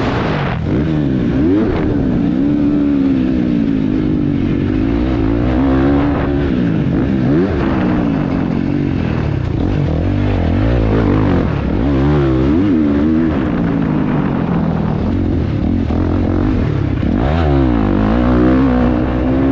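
KTM 350 XC-F four-stroke single-cylinder dirt bike engine, heard from a helmet camera, revving up and down repeatedly under the rider's throttle as it works around a motocross track, its pitch rising and falling every second or two.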